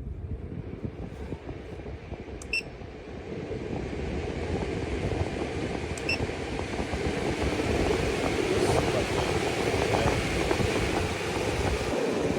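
12V RV roof vent fan running in exhaust mode, a steady rush of air that grows louder over the first several seconds as it is stepped up through its speeds, then holds. Two short beeps sound about two and a half and six seconds in.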